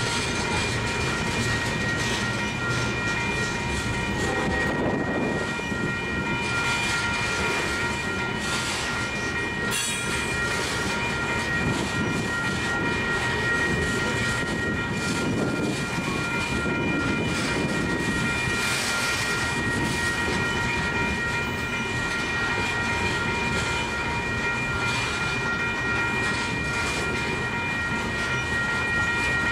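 Long freight train of covered hopper cars rolling past, wheels clattering over the rails, with a steady high ringing tone over it.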